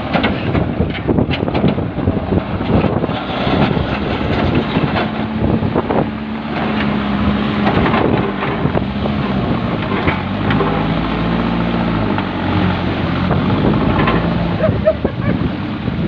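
Diesel engine of a JCB backhoe loader running under changing load, its note stepping up and down in the second half. Irregular rushing bursts sound over it.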